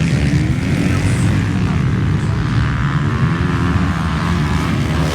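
Motocross motorcycle engines running on the track: a steady, loud engine noise with a dense low rumble.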